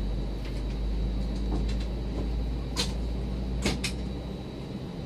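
Airbus A319 cabin noise before takeoff: a steady low rumble with a hum from the aircraft, easing a little near the end. Sharp clicks sound in the cabin a little under three seconds in and twice near four seconds.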